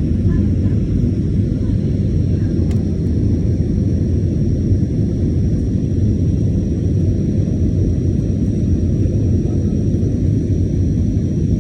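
Steady low rumble of jet airliner engines and airflow heard inside the passenger cabin during the climb after takeoff, with a faint high whine that rises slightly in pitch.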